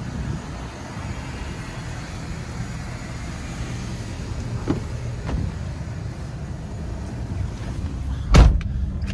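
Ford 6.7 Power Stroke V8 diesel idling steadily, with a few faint knocks. A truck door shuts with a heavy thud near the end.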